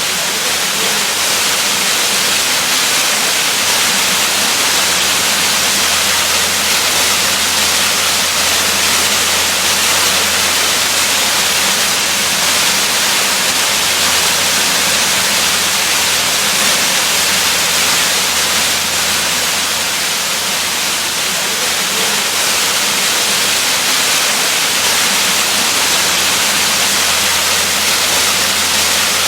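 Waterfall: a steady, even rush of falling water, a loud hiss with no breaks or changes.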